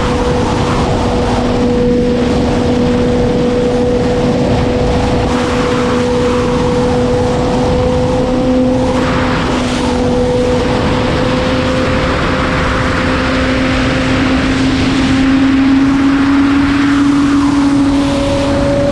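Sport motorcycle engine running at a steady pitch that creeps slowly upward, rising more near the end, with wind rushing over the microphone.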